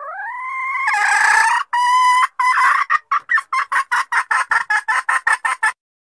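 Junglefowl hen calling as a lure call for cocks. A drawn-out note rises in pitch, then breaks into a run of quick clucks that speed up and stop abruptly near the end.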